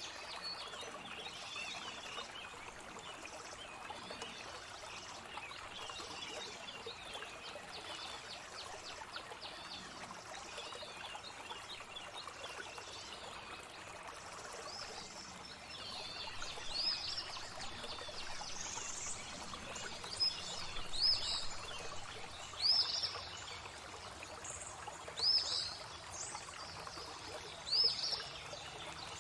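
Steadily running, trickling water with birds chirping. From about halfway, one bird repeats a short high call every second or two; these calls are the loudest sounds.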